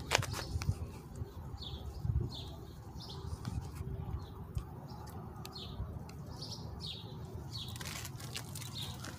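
Small songbirds chirping over and over, short falling chirps about every half second, over a steady low wind rumble on the microphone. A sharp click comes right at the start.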